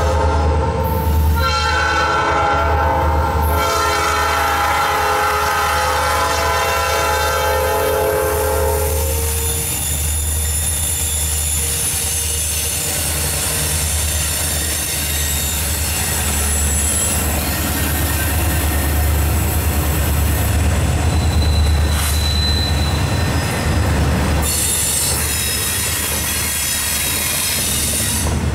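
Diesel locomotive air horn of a Norfolk Southern GP60 blowing for a grade crossing, with a short break about a second in, then held until about nine seconds in. After that the locomotives and double-stack intermodal cars roll past in a steady heavy rumble, with thin high-pitched wheel squeal at times.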